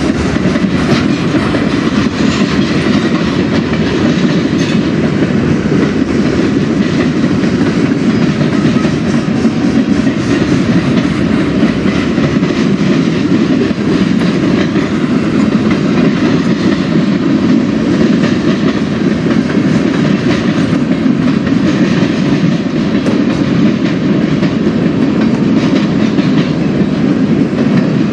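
A long freight train rolling past close by: the steady, even rumble of covered hoppers and flatcars running on the rails, with light clicks of the wheels over the rail joints.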